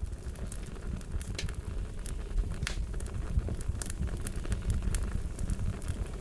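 Fire crackling steadily: irregular sharp pops and snaps, several a second, over a low steady rumble.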